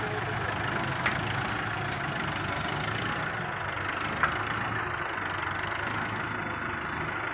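Kubota MU4501 tractor's four-cylinder diesel engine running steadily at a low, even speed, with two sharp clicks about a second in and about four seconds in.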